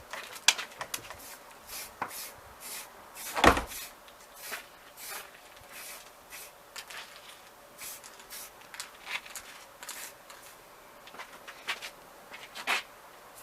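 Aerosol spray paint can sprayed in a long series of short hissing bursts. There is one loud knock about three and a half seconds in.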